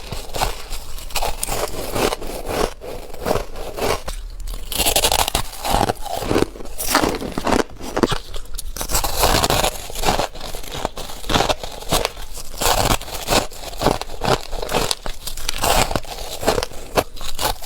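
Ice being bitten and chewed: crisp crunching and scraping bites, many in quick succession.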